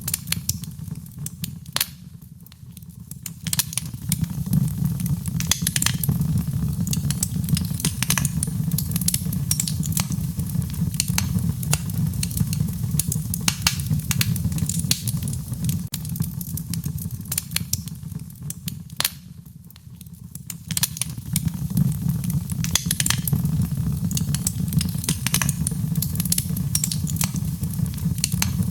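Wood fire burning: a steady low rumble from the flames with frequent sharp crackles and pops from the burning wood. The rumble eases briefly twice, once a couple of seconds in and again about two-thirds of the way through.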